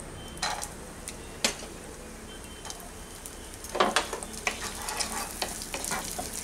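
Cashews and raisins frying in ghee in a non-stick pan: a quiet sizzle, with sharp clicks and scrapes, sparse at first and more frequent from about four seconds in, as they go into the pan and are stirred with a wooden spatula.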